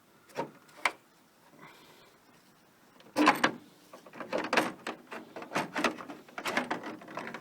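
Two sharp clicks, then from about three seconds in a quick run of hard knocks and clatters, like a part being handled and set down.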